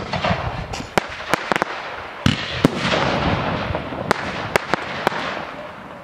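Aerial fireworks bursting: about ten sharp bangs spread over six seconds, with a continuous hiss between them.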